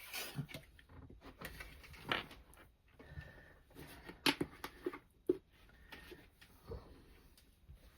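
Small handling sounds of watercolour painting: a paintbrush brushing and dabbing on paper, with a few sharp taps, the loudest about four and five seconds in.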